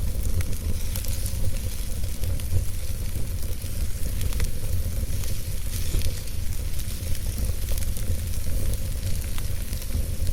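Campfire burning: a steady hiss over a low rumble, with scattered crackles and pops from the wood.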